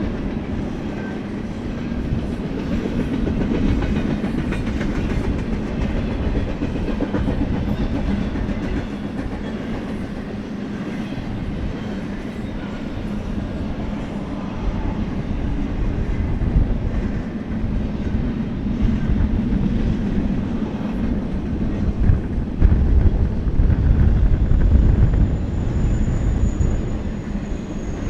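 BNSF freight train cars rolling past with a steady rumble and the clickety-clack of wheels over the rail joints, growing louder toward the end.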